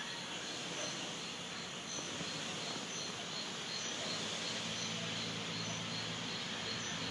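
Insects chirping in an even rhythm, about three high chirps a second, over steady outdoor background noise. A low hum comes in about halfway through.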